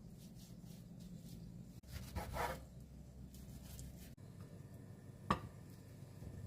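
Kitchen handling sounds over a low steady hum: a brief rubbing or scraping about two seconds in, and a single sharp tap a little past five seconds.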